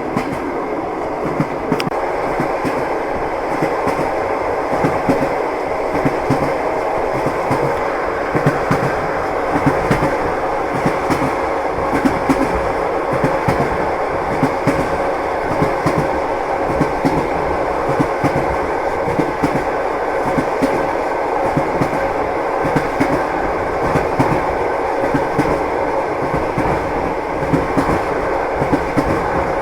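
Train wheels clattering over the rails with frequent knocks on top of the steady running noise of a moving railway carriage.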